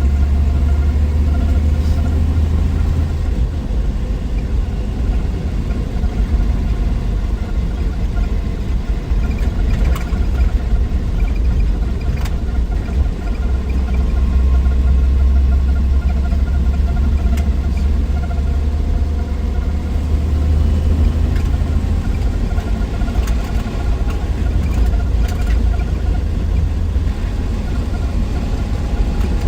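A 1963 Willys Wagon's 230 cubic-inch Tornado overhead-cam straight-six running while the wagon is driven, heard as a steady low rumble that swells and eases, with a few faint light clicks.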